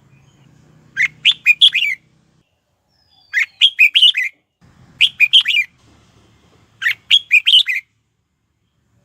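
Red-whiskered bulbul singing: four short, quick phrases of several chirping notes each, about two seconds apart.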